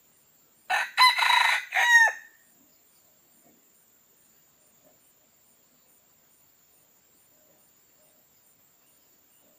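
A junglefowl cock crowing once, a single crow of about a second and a half in three joined parts, the last part dropping in pitch.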